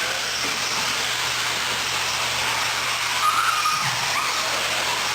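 A pack of electric 1/10-scale 4wd short course RC trucks racing: a steady wash of motor whine and tyre noise, with a brief higher whine a little after three seconds in.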